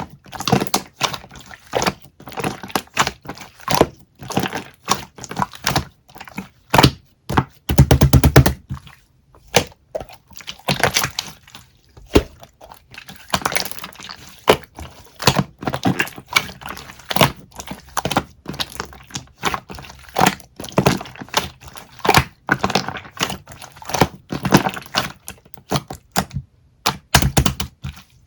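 Irregular clicks, taps and knocks from hard objects, with a fast rattling run of clicks about eight seconds in.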